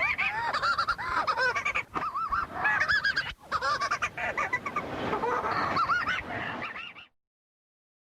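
A group of petrels calling: many overlapping arched, honking calls, cutting off abruptly about seven seconds in.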